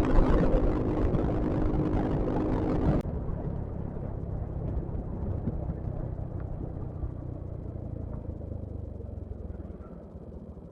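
Yamaha XMAX scooter engine droning with wind rushing over the microphone while riding. About three seconds in, the sound cuts abruptly to a quieter, duller low rumble that fades near the end.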